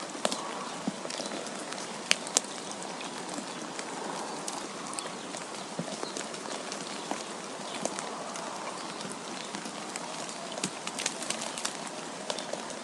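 Wind blowing steadily, with many sharp ticks scattered through it and two louder ones about two seconds in.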